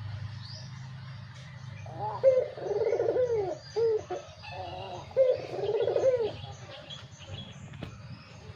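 A dove cooing: two phrases of rising-and-falling coos, the first starting about two seconds in and the second about five seconds in. Faint high chirps of small birds sound in the background.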